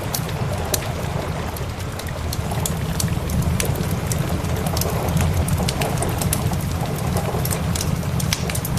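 Steady rain mixed with a crackling wood fire: a constant low rumble and hiss with many small sharp crackles and ticks.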